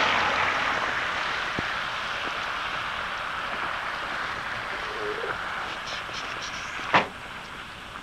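A passing vehicle's noise fading steadily as it moves away, with one sharp click about seven seconds in.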